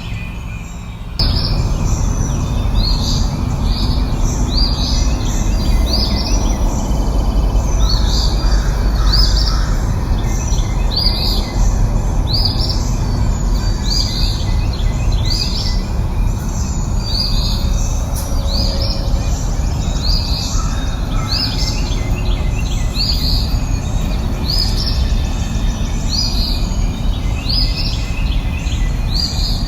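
Birdsong: short high chirps repeating about once a second over a steady low rumbling background, which gets abruptly louder about a second in.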